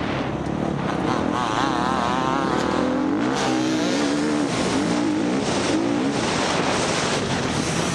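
Four-stroke dirt bike engine under race load, its pitch rising and falling over and over as the throttle opens and closes.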